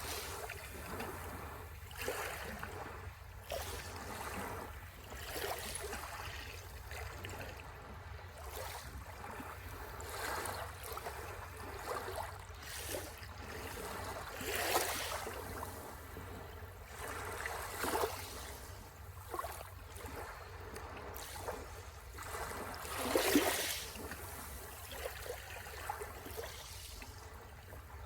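Small sea waves washing and splashing on the shore in irregular swells, the biggest about midway and again about four-fifths of the way through, over a steady low rumble.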